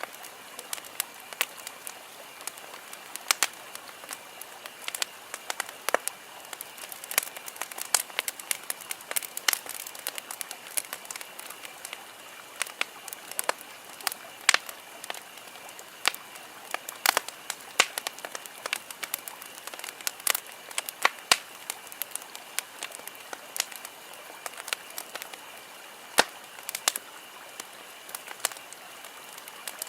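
Wood campfire crackling, with many irregular sharp pops and snaps over a steady soft hiss.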